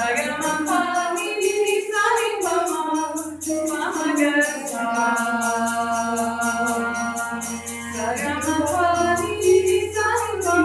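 Live sitar song with singing: long held vocal notes that glide between pitches, over a quick steady beat of hand percussion.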